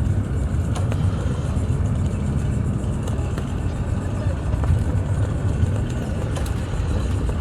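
Steady low engine rumble of vehicles or boats idling, with a few faint clicks.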